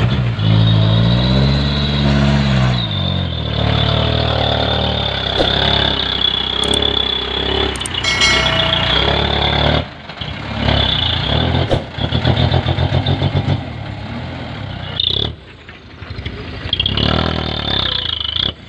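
Heavy loaded dump truck's diesel engine revving, its pitch rising and falling as it works along, with a few sharp knocks and a brief hiss about eight seconds in.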